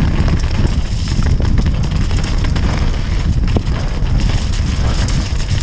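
Wind rumbling on the microphone during a mountain-bike descent, with scattered clicks and knocks from the bike rattling over rough ground.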